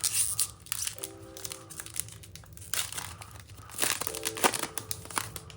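Foil booster-pack wrappers crinkling and rustling in several short bursts as the packs are handled, over quiet background music.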